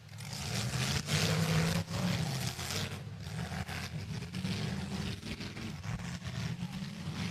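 Demolition derby car engines running hard, their pitch rising and falling as they are revved, with a few sharp knocks.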